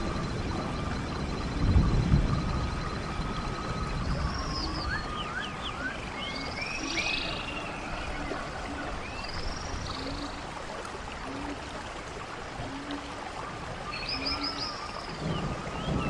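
Birds singing in short chirps and trills over the steady rush of a running stream. In the middle stretch a series of short low notes repeats about once a second.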